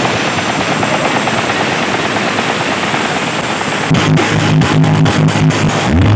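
Loud, dense music blasting from a carnival sound-system truck. About four seconds in, heavy repeating bass notes come in.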